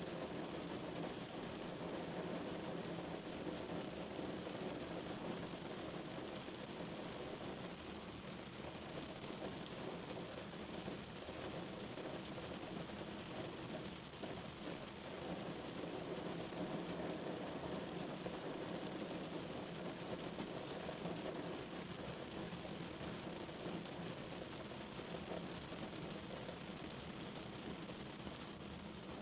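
Rain falling steadily on a car, a dense even patter of drops on the body and glass.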